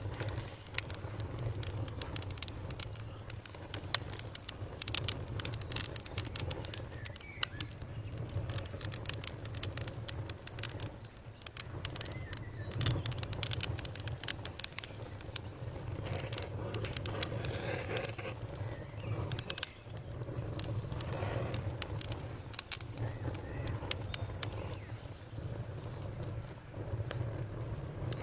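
Wood fire crackling with frequent, irregular sharp pops over a steady low rumble, with birds calling faintly in the background.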